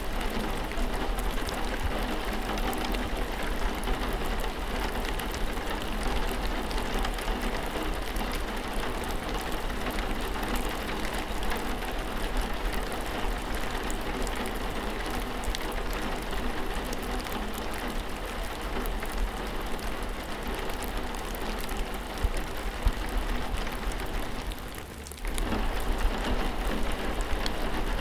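Steady rain with many individual drops pattering on a surface. It dips briefly about 25 seconds in, then carries on at the same level.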